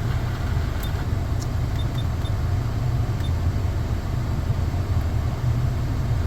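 Honda Accord engine idling, heard from inside the cabin as a steady low rumble, running again with replacement ignition coils fitted.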